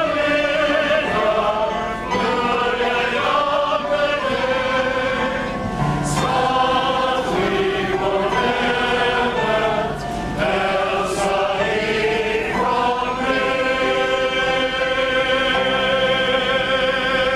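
Male chorus singing, closing on a long held chord that starts about two-thirds of the way through.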